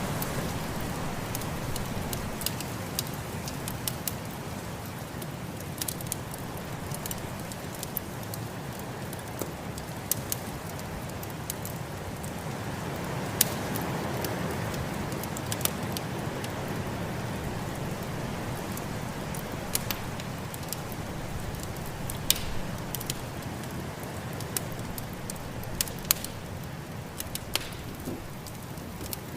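Wood fire crackling in a fireplace, with scattered sharp pops, over a steady rushing snowstorm wind that swells about halfway through.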